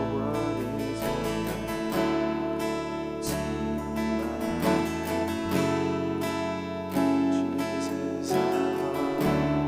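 Instrumental worship music: acoustic guitar strumming over sustained chords and bass notes that change every second or two.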